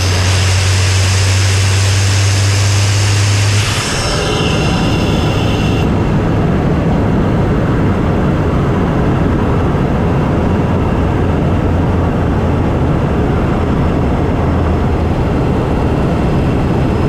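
Volkswagen MK7 GTI's turbocharged 2.0-litre four-cylinder heard through a CTS cold air intake from inside the engine bay while driving. A steady, loud drone holds for about four seconds, then drops in pitch as the driver lifts or shifts, and the engine settles into steady running for the rest.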